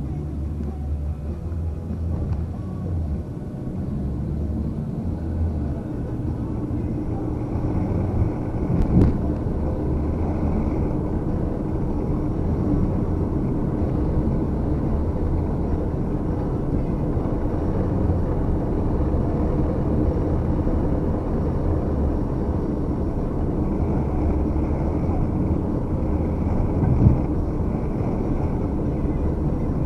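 Muffled, steady low rumble picked up by a camera left running inside a bag, with a knock about nine seconds in and another near the end.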